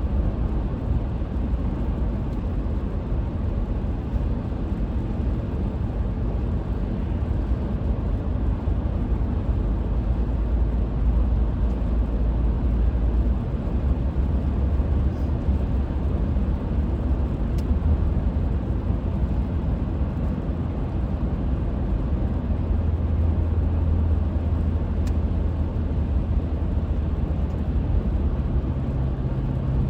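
Car driving steadily, with a continuous engine hum and tyre and road noise; the engine note steps higher near the end.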